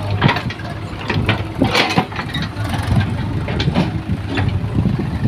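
Heavy diesel machinery running steadily, with repeated irregular metallic clanks and knocks over the engine hum.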